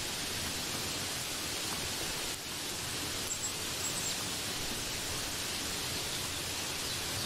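Steady rain falling, an even hiss with no drops standing out.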